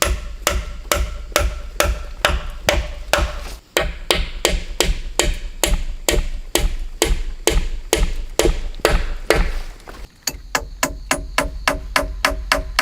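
Repeated hard strikes, about two a second, like a hammer or axe hitting wood. About ten seconds in they turn faster and each carries a ringing pitch.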